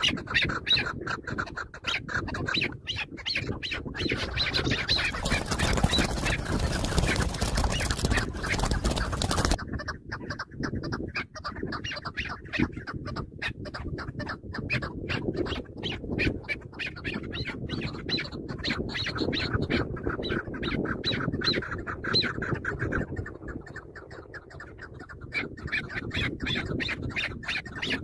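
Chukar partridges calling in rapid, repeated clucking notes. From about five to nine seconds in, a loud rushing noise sits under the calls.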